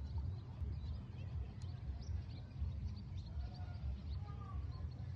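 Small birds chirping in short high notes, with a few lower calls about midway, over a steady low rumble.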